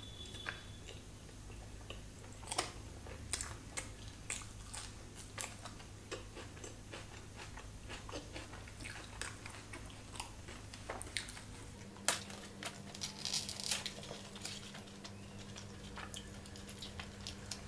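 Chewing paneer tikka, with irregular mouth clicks and small crunches.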